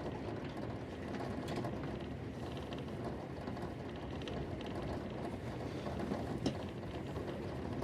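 Steady rumble of a passenger train carriage running along the track, heard from inside, with faint creaks and clicks from the carriage.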